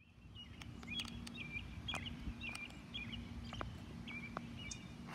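Outdoor ambience: a small bird singing short chirping phrases over and over, with scattered sharp clicks and a steady low hum underneath.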